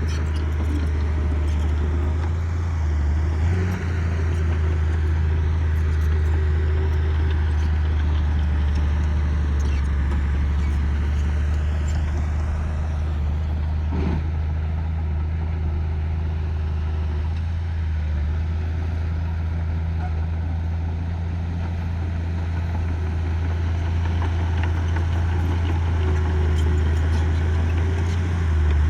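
Diesel engine of heavy earthmoving equipment running steadily with a deep, even hum, with one brief sharp knock midway.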